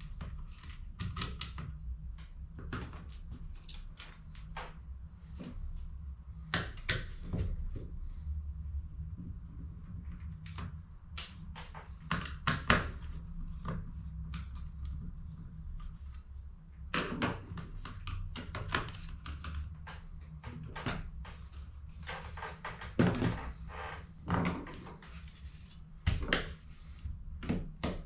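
Irregular clicks and knocks of hard plastic parts and tools being handled while refilling HP CE285A laser toner cartridges, over a steady low hum.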